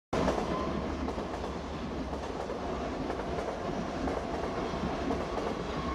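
Train running past on the tracks: a steady rumble of wheels on rail, with faint clicks as the wheels cross the rail joints.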